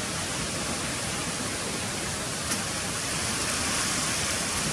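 Steady rain falling, an even hiss that grows a little louder toward the end.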